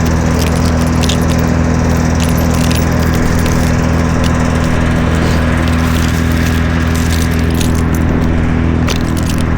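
An engine runs steadily at one speed throughout, with light metallic clinks and jingles scattered over it.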